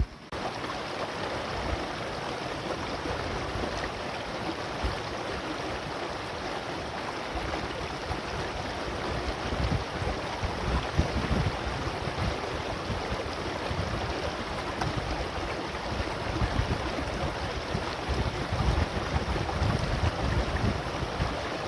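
Steady rushing noise that starts suddenly, with uneven low rumbling surges underneath.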